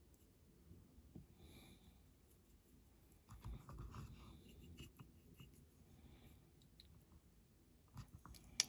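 Near silence with faint brushing and scratching from a small paintbrush working paint onto a die-cast model car, with a few small clicks and one sharp click near the end.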